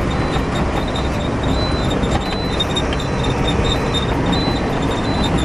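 Steady engine and road noise heard inside a truck's cab while driving, with light rattling throughout.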